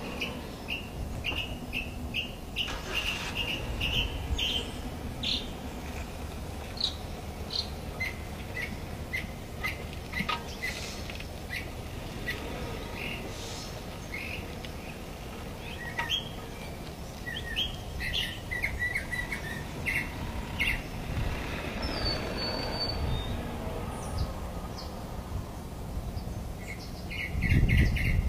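Birds chirping in short, repeated high notes, with a low steady rumble underneath. A louder low rumble comes in near the end.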